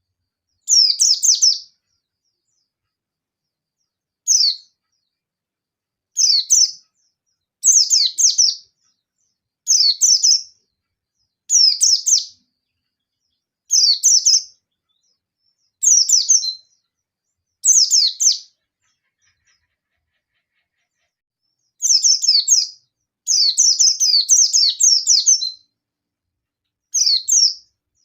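Yellow-breasted white-eye (pleci) singing its agitated 'ngalas nembak' challenge song: short bursts of sharp, very high, rapid falling notes about every two seconds, pausing for a few seconds about two-thirds of the way through and then resuming in a denser flurry. This is the call used to provoke and draw in rival white-eyes.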